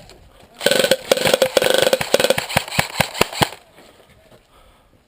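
Airsoft electric gun (AEG) firing a full-auto burst with a motor buzz, lasting about a second and a half. A few quick single shots follow, ending about three and a half seconds in.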